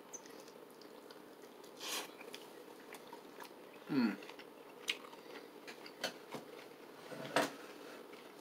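Faint chewing of a bite of fried chicken wing, with scattered small crunches and mouth clicks and a short falling hum about four seconds in.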